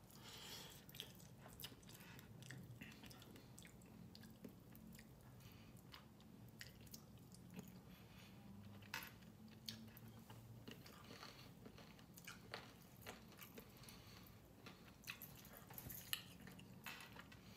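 Faint chewing and wet mouth clicks of a person eating chicken adobo and rice by hand, with soft scattered ticks throughout.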